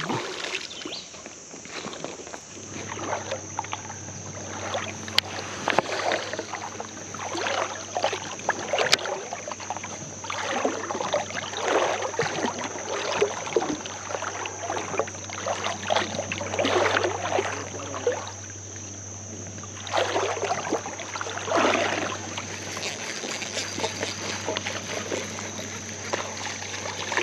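Irregular splashing and sloshing of creek water in short bursts every second or two, over a steady low hum.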